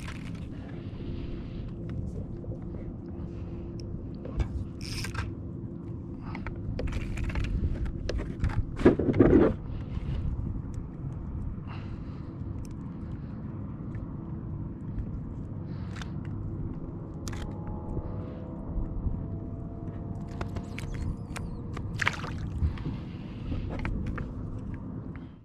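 Fishing kayak on the water: a steady low rumble of water and hull with scattered knocks, scrapes and clicks of gear being handled, and a louder scuffle about nine seconds in.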